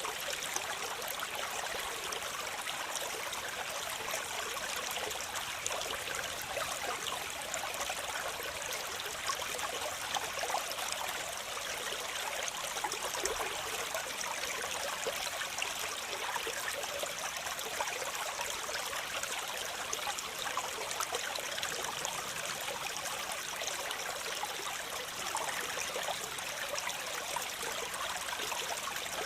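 Waterfall: a steady rush and splash of falling water, mostly hiss with little deep rumble.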